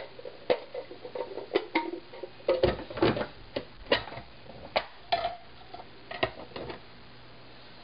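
Irregular light clicks and knocks from the Capresso 551 burr coffee grinder's parts being handled, busiest in the middle and stopping near the end; the grinder's motor is not running.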